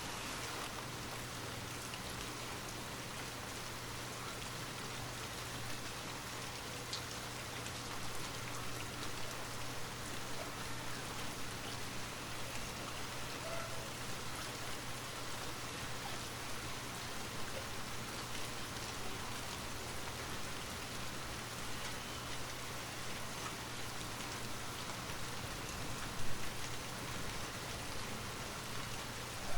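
Steady rain falling on a surface, an even hiss of drops with no speech over it. A single brief louder tap stands out about 26 seconds in.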